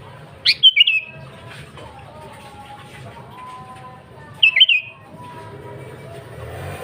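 Sooty-headed bulbul (kutilang) calling: two short phrases of a few quick high notes, about four seconds apart, over faint background bird chirps.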